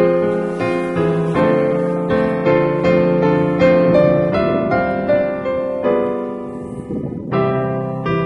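Background piano music, a gentle melody with notes struck at an even pace, easing off briefly about seven seconds in before picking up again.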